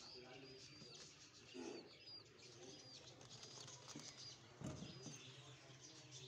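Faint, high bird chirps repeating about twice a second, with faint low cooing over a steady low hum.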